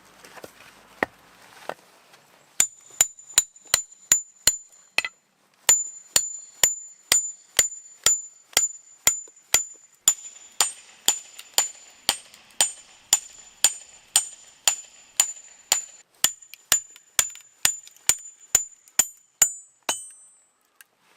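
A hammer striking a metal tent stake in a steady rhythm of sharp, ringing metallic blows, about two a second, with a short pause after the first few.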